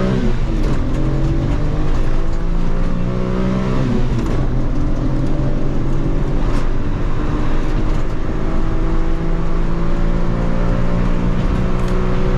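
Suzuki Alto kei car's small 660cc three-cylinder engine pulling hard at full throttle. The pitch drops at a gear change at the start and again about four seconds in, then climbs steadily as it revs up through each gear.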